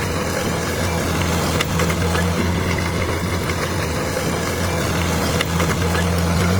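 Bulldozer's diesel engine running steadily as a deep, even drone, with a few faint clicks.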